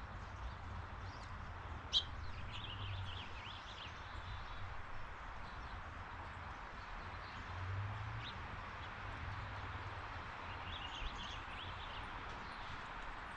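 Birds chirping in two short flurries of quick high notes over a steady outdoor hiss, with one sharp click about two seconds in.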